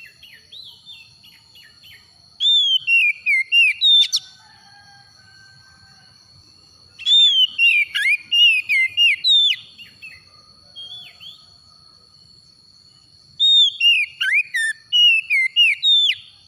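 Oriental magpie-robin singing in three loud bursts of rapid, sliding whistled notes, about two seconds in, about seven seconds in and near the end, with softer scattered notes between the bursts.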